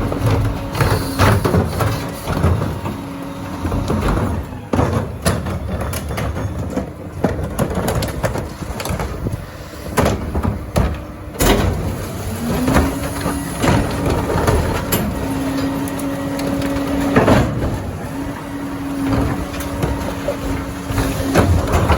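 Heil Dura-Pack rear-loader recycling truck at work: a steady whine that drops out early and comes back with a short rise about twelve seconds in, under repeated clanks and bangs of carts and recyclables being tipped into the hopper.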